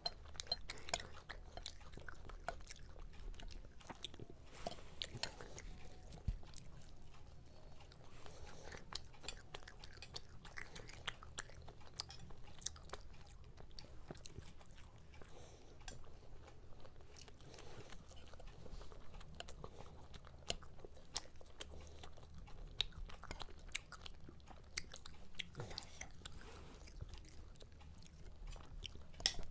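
Close-up chewing and biting of crisp fried Mughlai paratha and chicken chop, a steady stream of small crunches and wet mouth clicks.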